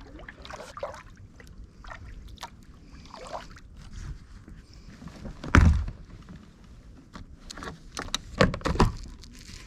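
Kayak paddle strokes in shallow, muddy water: scattered splashes and drips, with one louder thud a little past halfway and a few more knocks near the end.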